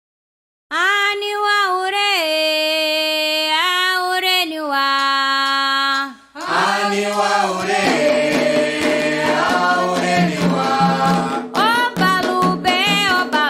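Candomblé chant for Xangô: after under a second of silence a solo voice sings a line, and after a short break about six seconds in, a group of voices answers in chorus, with percussion strokes joining near the end.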